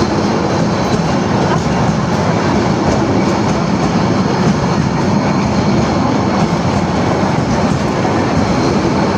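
Train running on the rails: a loud, steady running noise that holds even throughout, with no distinct beat of wheel clicks.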